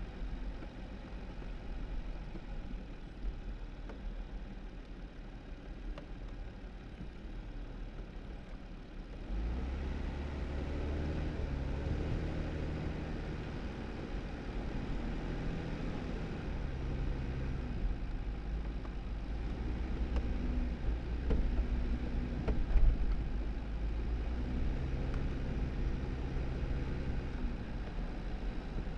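2018 Jeep Wrangler driving on a snowy dirt road: a steady low rumble of engine and tyres. About nine seconds in it gets louder, and the engine's pitch rises and falls again and again as it speeds up and eases off, with a few faint knocks.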